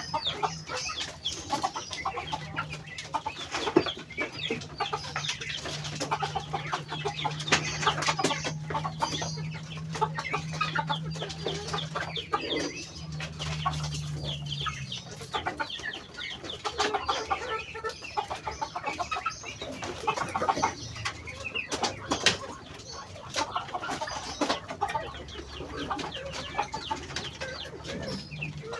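A flock of Muscovy ducks feeding greedily: many rapid bill clicks and pecks at the feed, with soft clucking calls throughout. A low steady hum runs under the first half and stops about halfway through.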